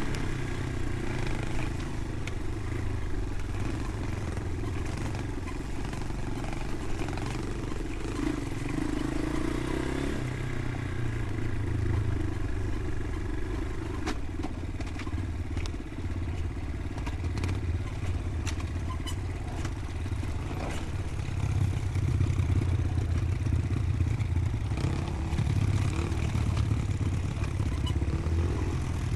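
Motorcycle engine running steadily while riding, with a few scattered clicks.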